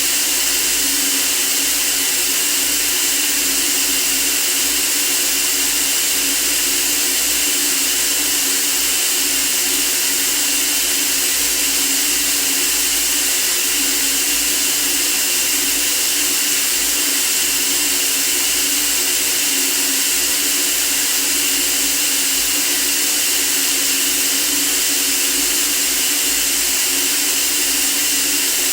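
Steady white noise for sleep: an even, unchanging hiss, strongest in the treble, with a faint steady hum beneath it.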